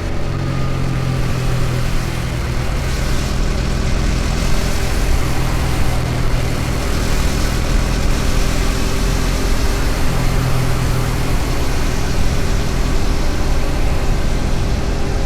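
KTM Duke 250's single-cylinder four-stroke engine running at a steady cruising speed on the highway, with loud wind and road rush over it. The engine note holds steady throughout.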